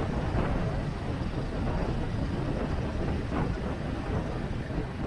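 Steady heavy wind rumble on the microphone with vehicle noise underneath, as from travelling in a moving vehicle.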